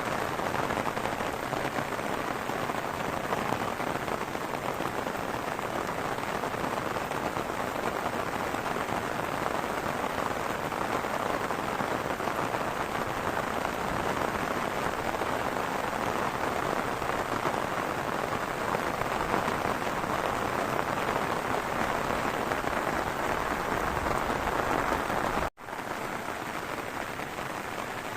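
Heavy rain falling steadily in a dense, even hiss. There is a momentary break near the end, after which the rain sounds a little quieter.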